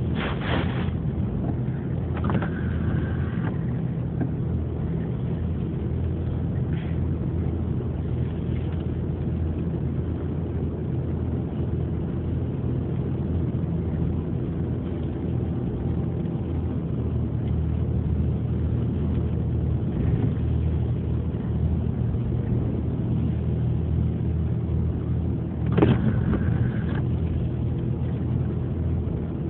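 A ferry's engine running with a steady low drone under wind noise. A few brief higher-pitched sounds cut through, the loudest about 26 seconds in.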